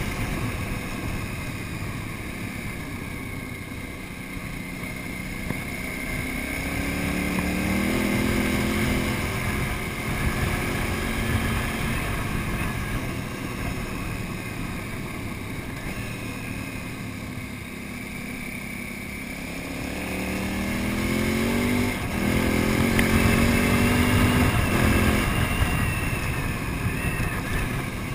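KTM 950 Super Enduro's V-twin engine running under way on a gravel road, over a steady rush of wind and road noise. The engine twice pulls up with a rising pitch, louder each time; the second pull has a short break partway through and ends abruptly near the end.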